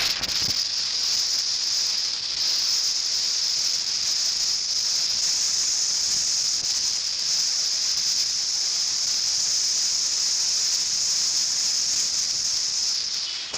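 Steady high-pitched hiss, even and unbroken throughout.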